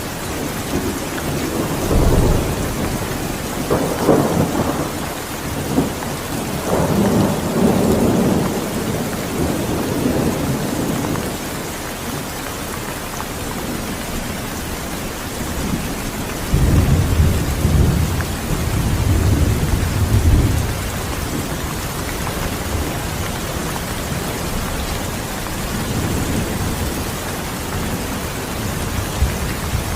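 Steady rain falling, with low rolling thunder rumbling through it in two long stretches: from about two seconds in to about eleven, and again from about sixteen to twenty-one seconds.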